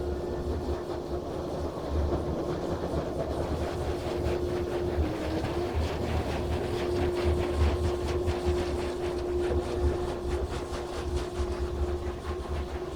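Christ Auto-Jet C115 car wash machine running over the car, heard from inside the cabin: a steady motor hum and low rumble, with a rapid, dense patter of hits on the bodywork that builds about two seconds in and eases near the end.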